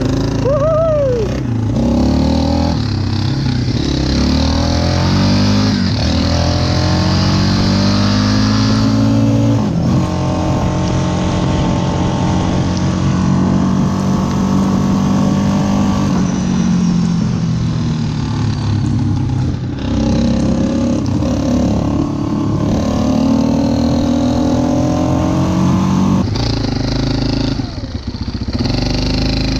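Yamaha Wolverine ATV engine running under way, its pitch climbing and dropping again and again as the throttle is worked. There is a brief dip in the engine sound near the end.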